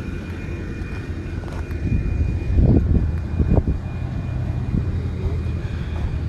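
An engine running nearby: a low rumble that grows louder about two seconds in, with a few short surges, then eases back.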